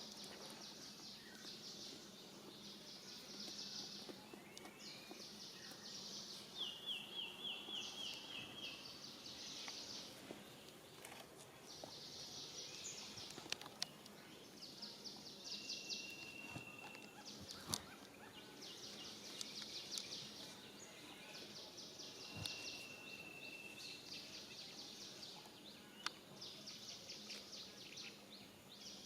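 Faint outdoor wildlife ambience: high, rapidly pulsing trills from birds or insects repeat about every two seconds, with a couple of short whistled notes and a few sharp clicks.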